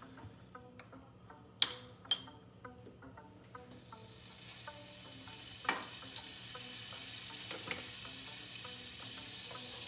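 Two sharp clinks of cookware about a second and a half in. Then, a few seconds in, a steady sizzle begins: a buttered grilled cheese sandwich frying in a skillet.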